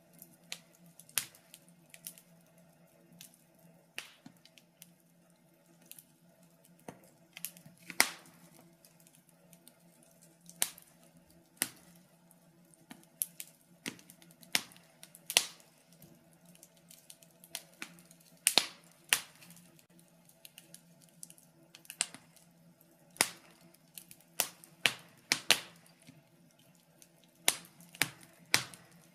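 Wood fire burning in a fireplace, crackling with irregular sharp pops, some much louder than others, over a faint steady low hum.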